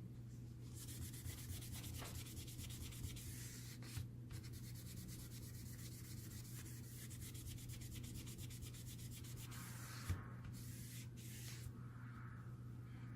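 Fast, scratchy rubbing or scraping by hand on a small part. It breaks off briefly twice, with a light knock at each break, over a steady low hum.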